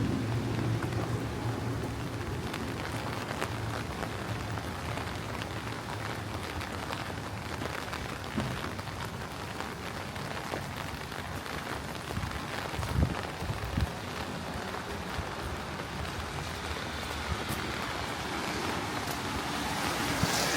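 Steady rain with scattered individual drops ticking close by, and a few brief low thuds about two-thirds of the way through.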